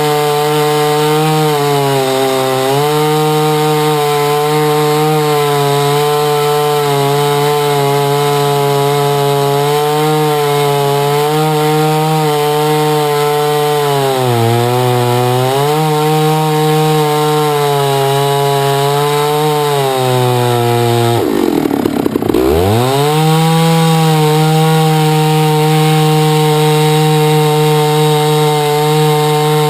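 Chainsaw mill ripping a hard maple log, the saw engine running at high revs under steady load. Its pitch sags a little a few times as the cut loads it. About three-quarters of the way through, the pitch drops sharply and comes straight back up.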